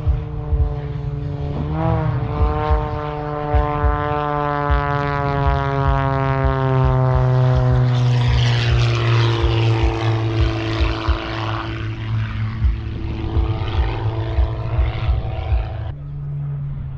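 Propeller aircraft flying past with its engine's pitch falling steadily as it goes by, loudest about halfway through.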